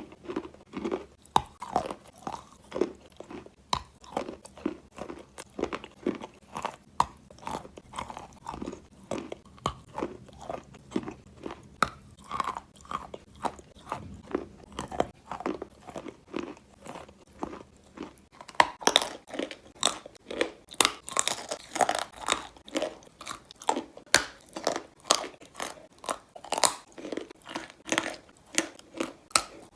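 Close-miked chewing of chalk: dry, gritty crunches in a steady rhythm of about two chews a second, turning louder and crisper a little past the middle.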